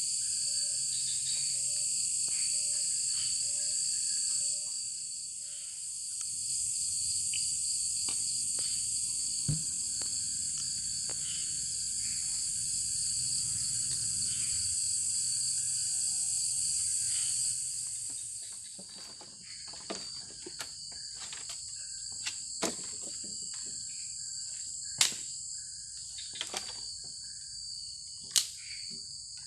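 A dense insect chorus of crickets, a steady high-pitched trilling. After about 18 s it eases off, and scattered sharp clicks and knocks come through, two of them louder near the end.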